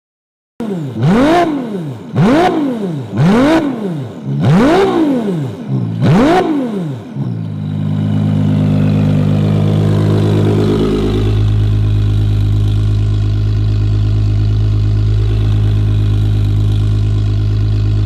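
An engine with an aftermarket performance exhaust, revved sharply five times in quick succession, each rev rising and dropping straight back. It then settles into a steady, deep idle.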